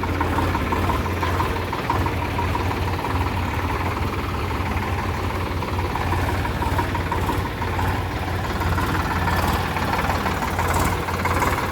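Solis 5015 tractor's diesel engine running steadily at low speed, with no revving.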